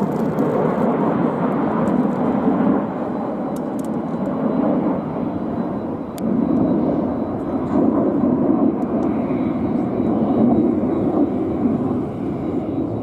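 Several fast aircraft flying overhead in a line: a steady, loud rushing engine noise that eases briefly about six seconds in and then swells again.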